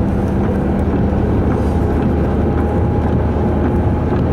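Steady engine hum and road noise of a car, heard from inside the cabin while driving.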